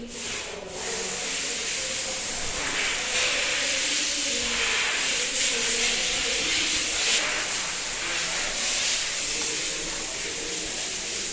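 A loud, steady hiss of a jet of air or spray, starting suddenly and swelling and easing slightly, then cutting off near the end.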